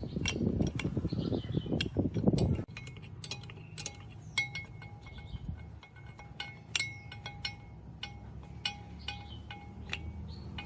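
Metal parts clinking and tapping together, several strikes ringing on with a clear metallic tone. A rough, rattling low noise with clicks in it stops abruptly about two and a half seconds in.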